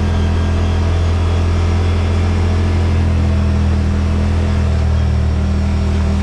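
Side-by-side UTV engine running at a steady, unchanging pitch from on board, under a constant rushing noise of driving.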